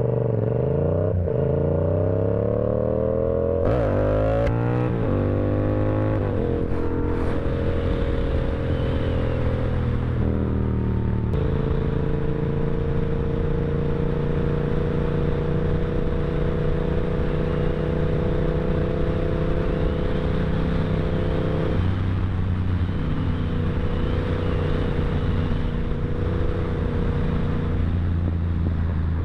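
Yamaha R7 motorcycle engine under way, its pitch rising and changing through the first ten seconds or so as the revs and gears change. It then holds steady cruising revs, easing slightly about two-thirds of the way through.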